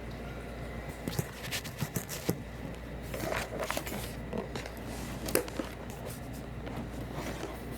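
Handling noise: irregular light clicks, taps and brief scrapes of objects being moved by hand, starting about a second in, over a steady low hum.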